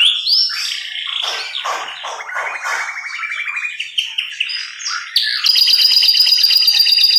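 Domestic canary singing a run of rapid trills, each a fast series of repeated notes, passing from one trill to the next. From about five and a half seconds in it is louder, with a fast high trill.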